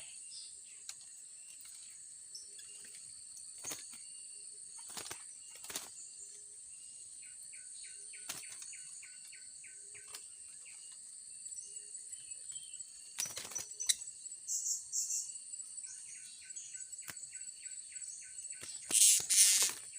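Insects droning steadily at a high pitch, with runs of short, quick high chirps from serindits (blue-crowned hanging parrots), mostly in the second half. Scattered sharp clicks throughout and a loud rustling burst near the end.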